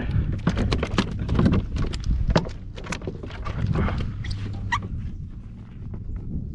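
A small snook flopping on the kayak deck after falling off the hook into the boat: a fast, irregular run of slaps and knocks that thins out after about two and a half seconds.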